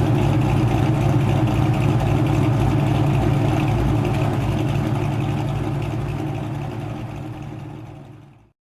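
Ford Mustang GT 4.6-litre two-valve V8 with aftermarket cams, headers, X-pipe and SLP LM1 exhaust idling steadily, fading out near the end.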